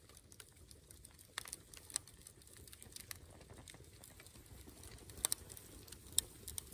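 Wood campfire crackling quietly, with scattered sharp pops and snaps over a faint low hiss.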